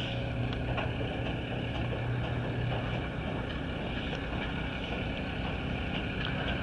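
Steady motor hum with a low drone that eases off about three seconds in.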